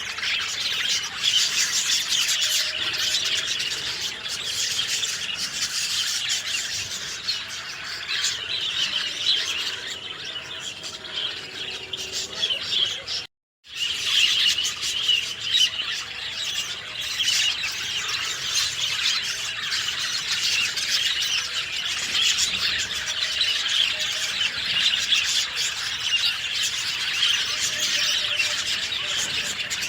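A dense chorus of many songbirds chirping and twittering over one another, without a break except for a brief silent gap of about half a second near the middle.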